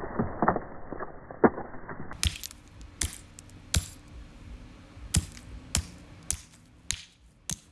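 Box fan being smashed apart: irregular sharp clacks and clinks of breaking plastic and metal parts, about one every half second to a second, loudest in the first second and a half.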